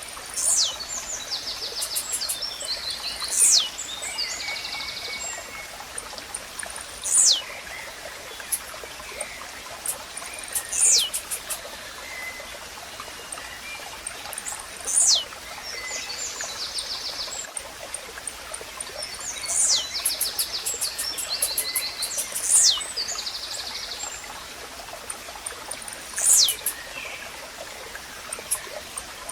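Blue-black grassquit (tizil) singing: a short, high note that slides steeply downward, repeated about every three to four seconds. Underneath runs an even hiss of flowing water, with buzzy chirps from other birds.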